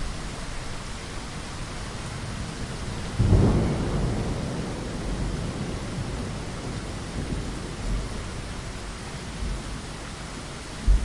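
Steady heavy rain falling against a window, with a low rumble of thunder breaking in about three seconds in and slowly fading, and another short rumble near the end.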